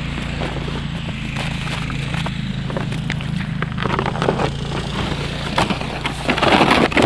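Fast river current rushing through open water at the edge of thin ice, with wind on the microphone. Scattered crackles run through it, and a louder rustling burst comes about six seconds in.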